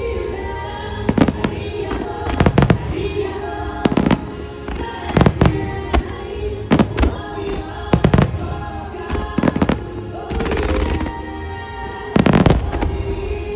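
Aerial firework shells bursting, about a dozen sharp bangs, often in close pairs, over a song playing through the show's loudspeakers in a music-synchronised fireworks display.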